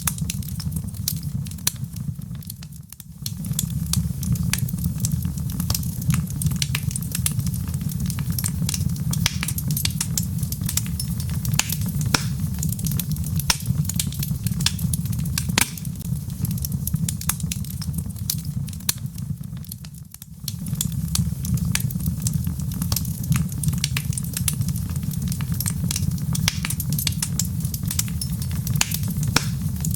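Wood fire burning in a fireplace: a steady low rumble of flames with dense, sharp crackles and pops from the burning logs. The sound dips briefly twice, about three seconds in and again near the middle.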